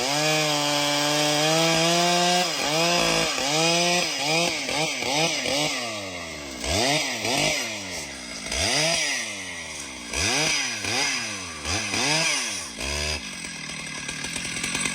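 Two-stroke chainsaw felling a tree. The engine is held at high revs, then its speed repeatedly drops and climbs again about once a second, and the saw stops about 13 seconds in.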